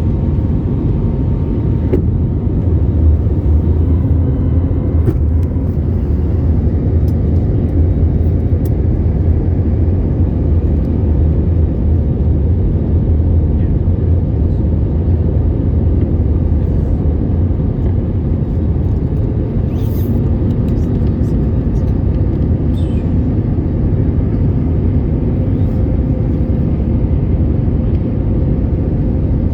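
Boeing 787-8 airliner heard from inside the passenger cabin: a loud, steady low rumble of engine and airflow noise with a faint steady hum on top.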